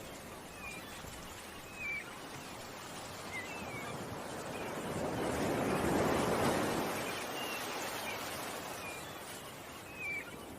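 Ocean waves washing ashore, one surge swelling up through the middle and easing away, while small birds chirp in short, quick calls throughout.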